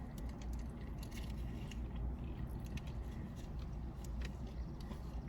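Chewing and handling of fast food, with scattered small clicks and crinkles, over a steady low hum.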